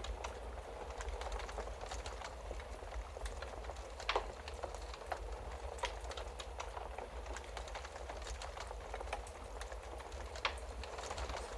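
Wood-burning fire crackling steadily, with scattered sharp pops over a low rumble; the loudest pops come about four seconds in and near the end.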